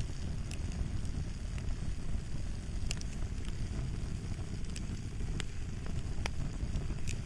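Fire crackling: a steady low rumble of burning with sharp, irregular pops about once a second.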